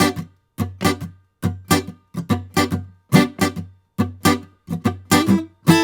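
Guitar strummed in a reggae rhythm: short, choppy chords, each damped quickly after the stroke, in a repeating pattern that puts the weight on the upstrokes.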